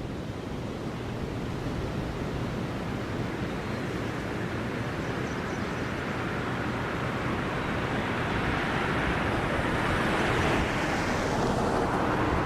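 Steady wind buffeting the microphone, with a vehicle approaching and passing over the bridge in the last few seconds; its tyre noise swells and then falls away in pitch.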